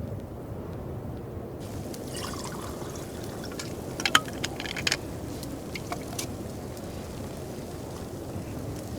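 Steady low storm noise of wind and rain. Around the middle comes a brief cluster of sharp clicks and a trickle of liquid, the loudest click just after four seconds.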